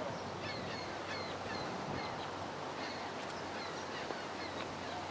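Birds chirping in short falling notes, repeated many times, over a steady outdoor rushing noise and a faint low hum.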